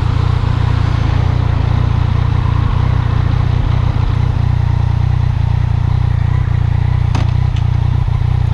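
Riding noise from a 2019 Yamaha MT-09: a steady, loud wind rumble on a helmet-mounted microphone over the engine running at a constant pace, with a sharp click about seven seconds in.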